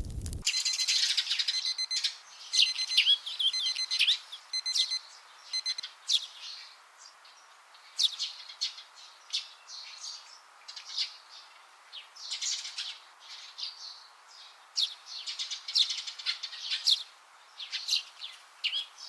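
A crackling bonfire cuts off about half a second in, and birds take over: many short, sharp chirps and twitters in quick falling notes, some calls close and loud.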